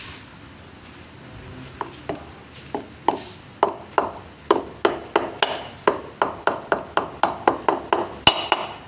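A hammer striking metal over and over, the blows coming faster until about three a second, each with a short metallic ring.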